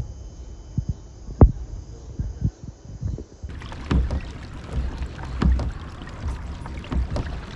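A pedal-drive fishing kayak, a Hobie Pro Angler 14, moving on the water: water sloshing against the hull with irregular low knocks and thumps. The sound changes abruptly partway through.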